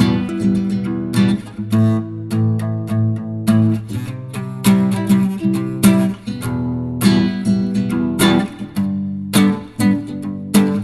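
Acoustic guitar playing a song's melody without vocals, strummed chords and plucked notes ringing on, in a steady rhythm.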